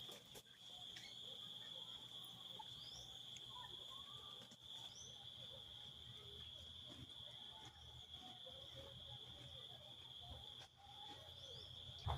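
A steady, unbroken high insect trill, like crickets, with faint, scattered short bird chirps over it.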